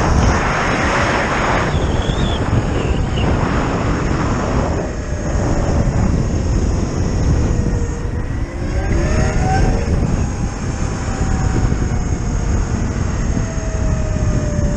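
Zero FX electric motorcycle's motor whine, climbing in pitch as the bike accelerates at the start and again about nine seconds in, then sliding slowly down as it eases off, under a steady rush of wind on the microphone.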